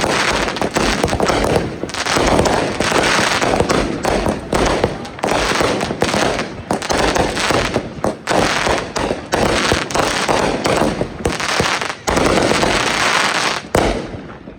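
Consumer fireworks going off: a dense, rapid run of bangs and crackles, thinning out near the end.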